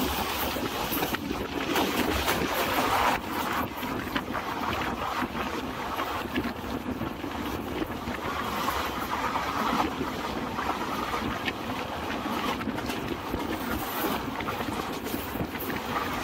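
Running noise of a moving passenger train: wheels rumbling and clicking along the track, with wind buffeting the microphone held out of the coach window.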